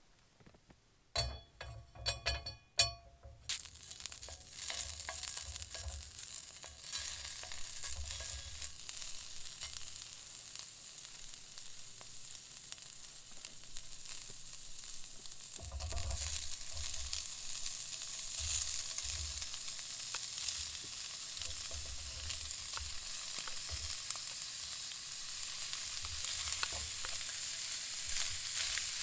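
Food frying in a pan over a campfire, a steady sizzle with the knocks of stirring. A few short metallic clinks come just before the sizzle starts, about three seconds in.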